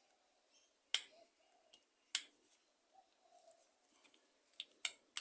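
About six sharp, irregular clicks of small metal tools and parts being handled on a Walbro carburettor as it is taken apart, the loudest about a second and two seconds in and near the end.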